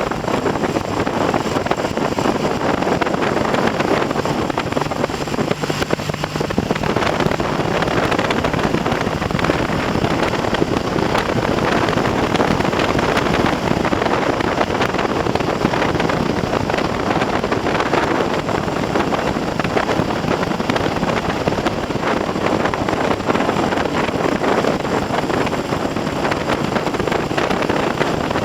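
Heavy wind buffeting on the microphone of a moving motorcycle, with the Triumph TR6's 650 cc parallel-twin engine running underneath at a light, mid-range throttle while it is run in on new pistons and rings.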